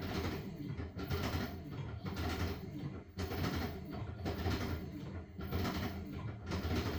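LG washing machine washing a load of blankets: the drum turning and sloshing water and wet fabric in a rhythmic swish about once a second, over a low motor hum.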